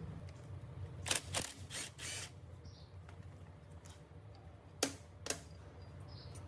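Short sharp clicks and clinks of metal engine parts and tools being handled during the teardown: a quick cluster about a second in, then two sharp clicks about five seconds in, over a steady low hum.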